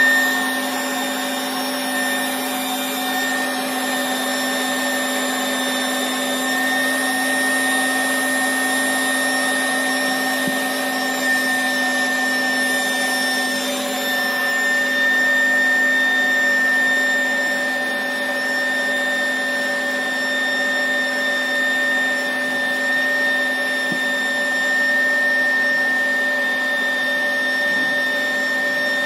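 Electric air pump running steadily, pushing air through a one-metre hose to inflate an inflatable boat's tubes. It makes a constant hum with a high whine over a rushing hiss.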